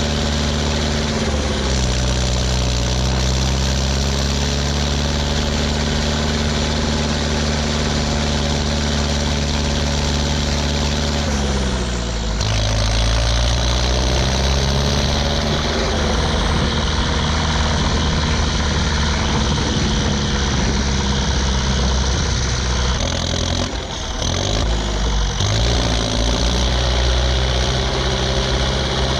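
Ursus 1014 tractor's four-cylinder turbo diesel on a straight pipe, running under load. Its engine speed drops about a second in and again near the middle before climbing back, with a short dip near the end.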